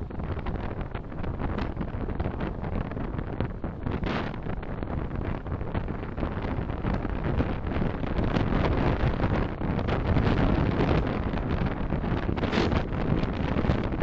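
Steady road and wind noise of a car on the move, picked up by a dashcam microphone, growing somewhat louder about eight seconds in.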